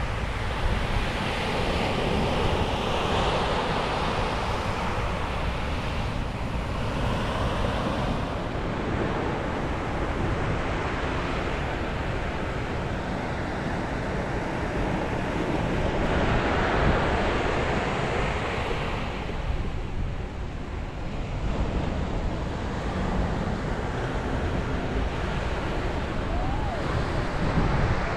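Sea waves breaking and washing up on a beach, the surf swelling and falling back every several seconds, with wind buffeting the microphone.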